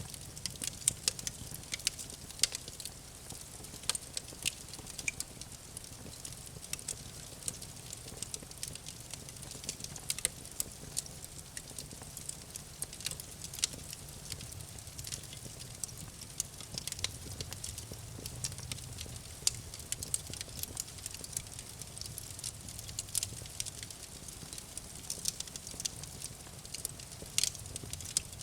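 Campfire burning: wood crackling with many irregular sharp pops over a steady low rumble of the flames.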